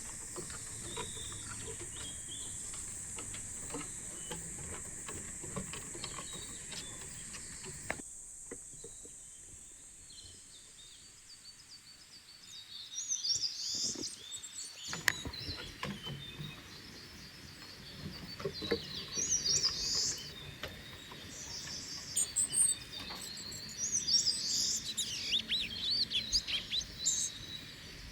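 Summer forest ambience: a steady high insect drone fades away over the first twelve seconds or so, then songbirds chirp and call in several clusters of quick notes.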